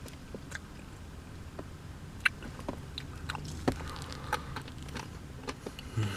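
Close mouth sounds of chewing a spoonful of salted caramel truffle Blizzard, soft-serve with chocolate chunks and pretzel pieces: scattered soft clicks, with two sharper crunches about two seconds in and about three and a half seconds in.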